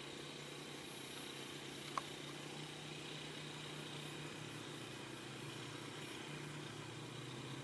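Faint, steady drone of a remote-control model airplane's motor, its pitch dipping a little around the middle and rising again near the end. A single sharp click about two seconds in.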